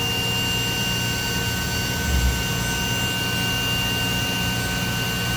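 DMG Mori DMC 1035V vertical machining center drilling aluminum with its spindle at about 10,200 rpm and 1000 psi coolant blasting through the spindle: a steady high-pressure spray hiss with two steady high whines over a low hum. A short low thump about two seconds in.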